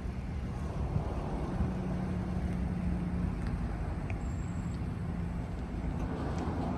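A motor vehicle driving: a steady low engine drone with road noise.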